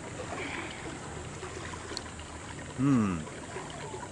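A steady trickle of water, with one short voice sound falling in pitch about three seconds in, the loudest moment.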